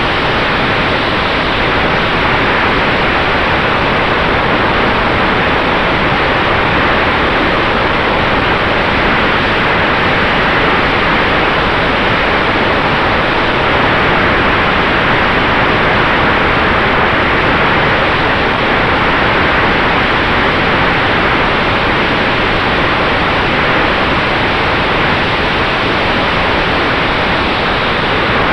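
Steady rushing of air and propeller noise from the electric Sonex Xenos motorglider in flight, with a faint steady high tone under the rush.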